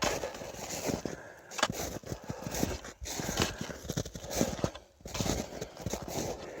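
Footsteps of a person walking at a steady pace, about one step a second.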